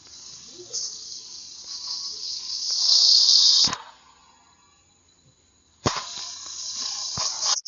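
A loud high hiss that swells and stops abruptly, then after a short near-quiet gap starts again with a sharp click and runs on until it is cut off.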